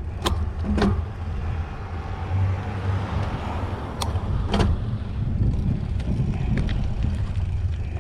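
Mountain bike being ridden: a steady low rumble of wind and tyre noise with a few sharp clicks and rattles from the bike.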